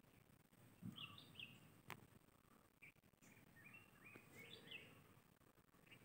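Near silence outdoors with a few faint, short bird chirps. A soft low thump and a sharp click come in the first two seconds.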